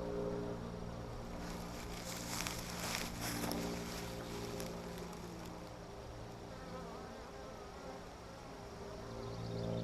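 Honeybees buzzing around an open hive, a steady droning hum. From about a second and a half in, a brief rush of noise lasting a couple of seconds joins it.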